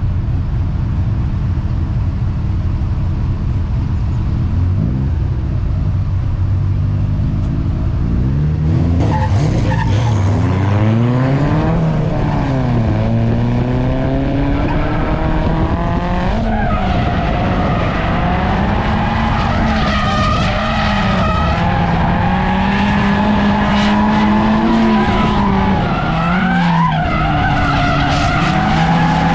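Turbocharged Mazda Miata drift car's engine running steadily at first, then from about eight seconds in revving hard and swinging rapidly up and down in pitch through a drift run, with tyres skidding on the asphalt.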